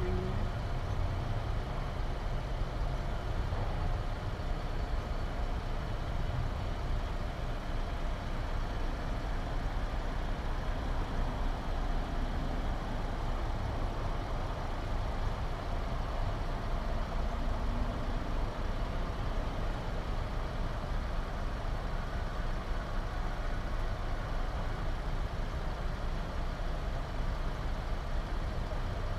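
A car engine idling steadily, a continuous low rumble with no change throughout.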